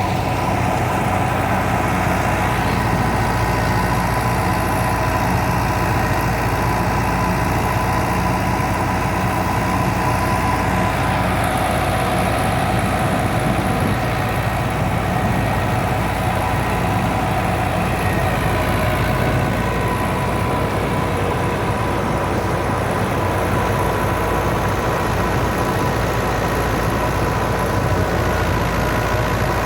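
Fiat 640 tractor's four-cylinder diesel engine running steadily while it drives a wheat thresher, the engine and machine noise blending into one continuous drone.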